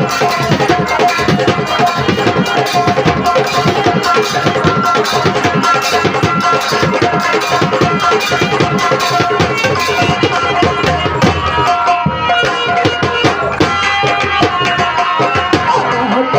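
Instrumental stretch of a live Indian folk-stage band: fast hand-drum playing, tabla-like, under steady held melody notes, with no singing.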